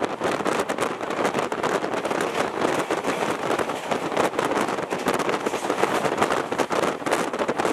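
Indian Railways train running at speed, heard from a carriage window: a steady rushing noise of wheels on rails and passing wind, full of fast rattling clicks.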